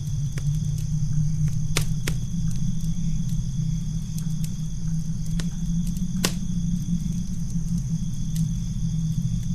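Campfire crackling: scattered sharp pops, the loudest about two and six seconds in, over a steady low rumble and a constant high, thin tone.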